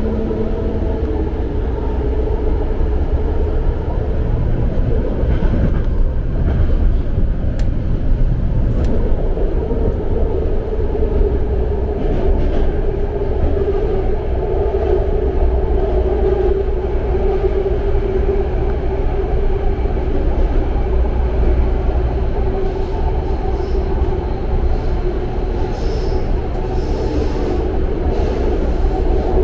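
BART train car running at speed, heard from inside the passenger car: a loud, steady rumble of the wheels on the rails with a droning tone held over it.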